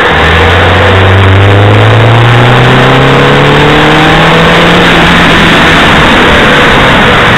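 A Ford Focus engine pulls in gear, its note rising slowly and steadily for about six seconds before easing off. It sits under a loud, constant haze of road and wind noise picked up inside the car.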